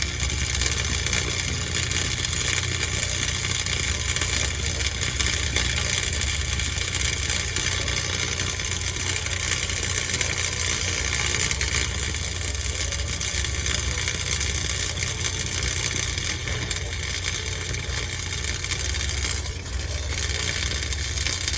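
A car engine running steadily at a low, even drone.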